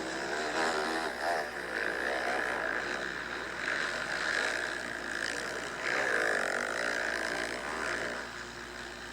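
Motocross bikes' engines revving up and down on the track, the pitch rising and falling as the riders work the throttle, easing off a little near the end.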